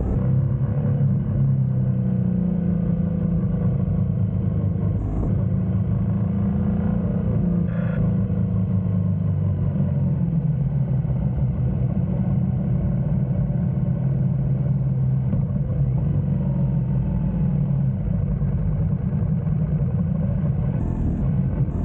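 GS motorcycle engine running steadily under way, its pitch drifting up and down a little with the throttle.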